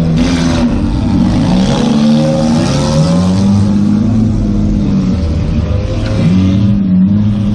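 A demolition derby car's engine revving up and easing off again and again as it is driven hard around a figure-8 course, heard from inside the stripped, open cabin along with loud road and wind noise.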